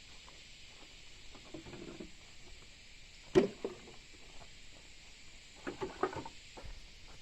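Scattered light knocks and rustling, with one sharper knock about three and a half seconds in and a small cluster of knocks near the end.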